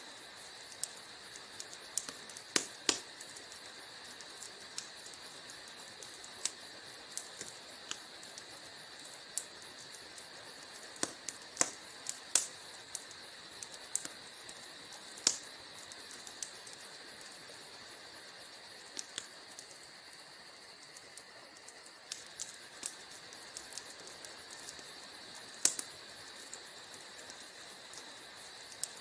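Wood fire in a fireplace crackling: irregular sharp pops and snaps over a steady soft hiss, with a few louder pops scattered through.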